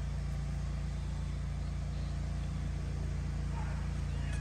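Steady low drone of an engine running at idle.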